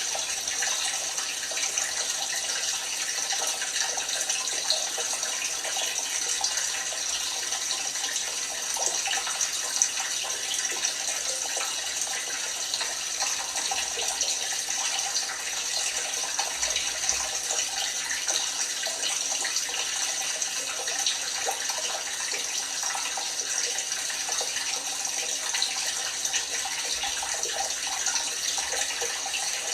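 LG washing machine filling, water running steadily into the drum.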